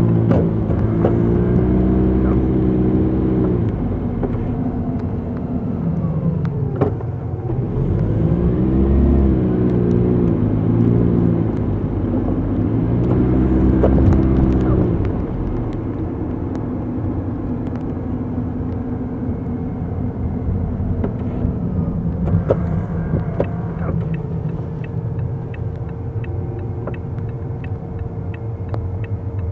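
Car engine and road noise during town driving: the engine note climbs and settles three times in the first half as the car pulls away and speeds up, then a steadier low rumble follows while it cruises or idles, with a few light ticks near the end.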